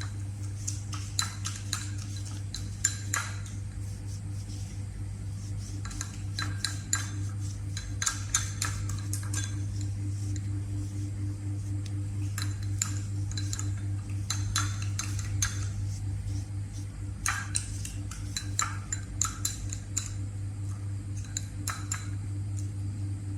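A metal spoon clinking against a dish in irregular clusters of light taps as a mixture is stirred, over a steady low hum.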